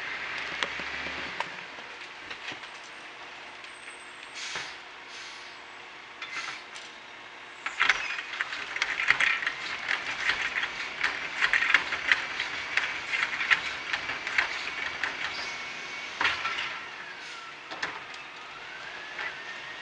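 Heil 5000 rear-loader garbage truck working, with a steady high mechanical whine and hiss. A dense run of knocks and clatter starts about eight seconds in and eases off after about sixteen, and near the end the whine dips and then rises in pitch.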